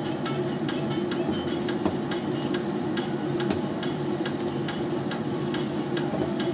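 Spring rolls sizzling and crackling as they fry in a thin film of oil in a wok. Now and then a slotted metal spoon clicks against the pan as the rolls are turned.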